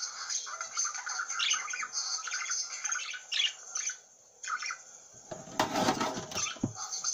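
Small bird chirping and chattering in quick irregular bursts, with a short lull in the middle and a louder flurry about two thirds of the way through.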